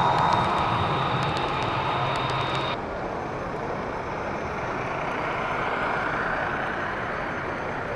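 HO scale model train running on a layout: a steady mechanical hum and rumble against the background noise of the hall. The tone changes abruptly about three seconds in.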